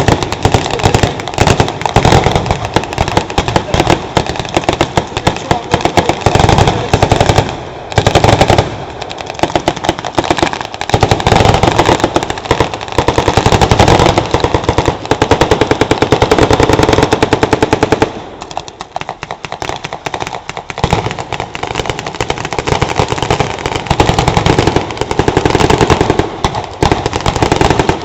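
Sustained firefight of blank-firing automatic weapons and machine guns: rapid, overlapping bursts of shots with hardly a gap. It thins out briefly about two-thirds of the way through, then picks up again.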